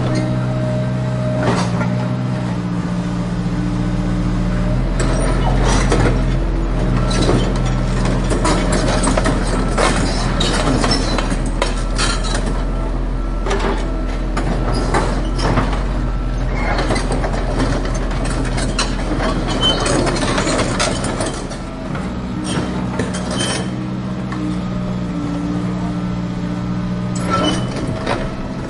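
Steady low engine drone of a heavy vehicle over irregular crunching and scraping of dry soil and gravel as a toy loader's bucket is pushed through the dirt. The crunching is densest in the middle.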